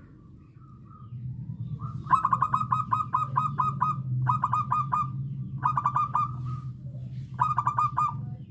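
Zebra dove (perkutut) cooing: four quick runs of short staccato notes, the first run the longest, over a low steady hum.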